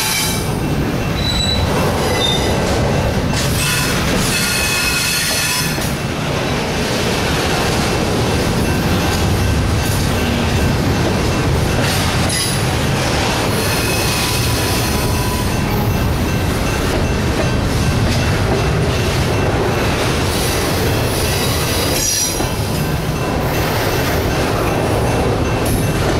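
Double-stack intermodal container train rolling past: a steady, loud rumble of steel wheels on rail from the loaded well cars, with high-pitched wheel squeals that come and go.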